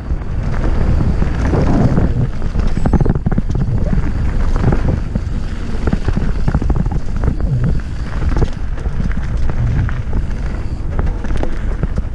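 Wind buffeting a ride-mounted microphone on a mountain bike descent, over a steady rumble of tyres on rough trail with frequent clatter and knocks from the bike.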